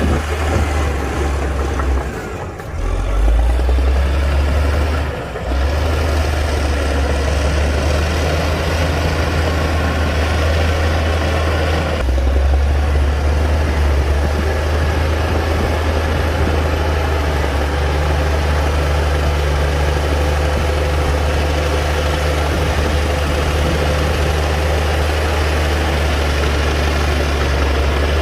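Heavy diesel engine of a Komatsu D60-P bulldozer running steadily with a deep rumble, dipping briefly twice in the first few seconds and changing tone about twelve seconds in.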